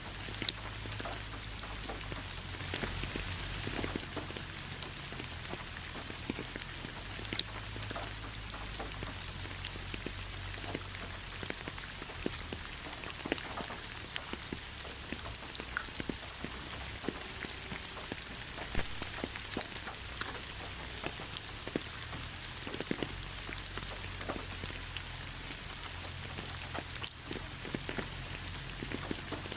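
Steady rain falling, with many separate drops ticking through the hiss over a low steady rumble.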